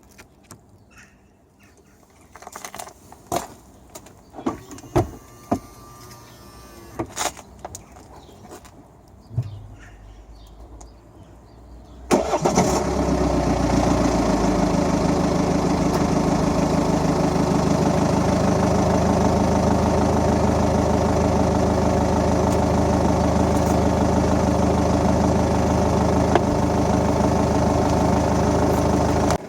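A few scattered clicks and knocks, then about twelve seconds in a BMW F10 5 Series engine starts abruptly, louder for a moment, and settles into a steady idle.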